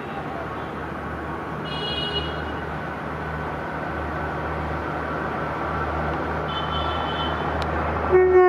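WAP-4 electric locomotive hauling a passenger train on approach, a steady low rumble growing slowly louder, with two brief high-pitched tones along the way. Near the end a loud horn blast begins.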